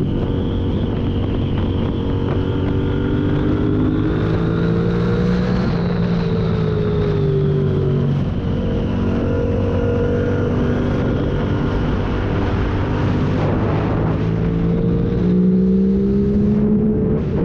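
A 2021 Yamaha MT-07's parallel-twin engine through a full MIVV exhaust with no catalytic converter and no dB killer, heard from the rider's seat. The revs rise and fall again and again as the bike accelerates, shifts and slows between bends.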